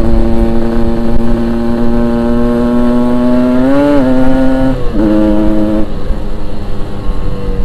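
Yamaha RX-King two-stroke single-cylinder motorcycle engine running at steady high revs while riding. Near the middle the pitch rises then falls, the note breaks off briefly twice, and it then fades under a low rumble of wind and road noise.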